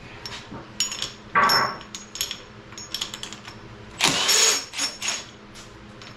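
Metal engine parts and hand tools clinking and clattering during an engine teardown: several sharp ringing metallic clinks, with two louder clattering bursts, one about a second and a half in and one about four seconds in.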